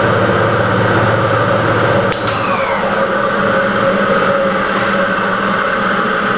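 Old elevator hoist machine running loud with a steady hum made of several held tones. About two seconds in, a sharp click is followed by a falling whine.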